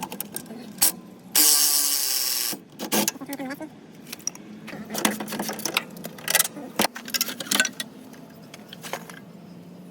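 Metallic clanks, clicks and knocks of parts and tools being handled, with one loud harsh buzzing burst lasting about a second near the start.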